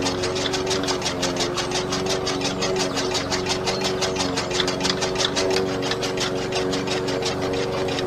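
Miniature chaff cutter driven by a small electric motor through a rubber-band belt, running steadily. A hum with a rapid, even clicking as the blade wheel turns and chops leaves.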